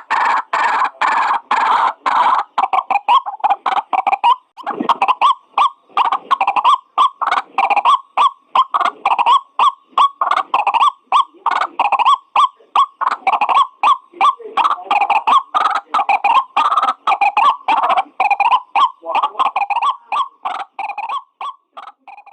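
White-breasted waterhen (ruak-ruak) calling: a loud, continuous run of short repeated croaking notes, about two to three a second, as used to lure the bird.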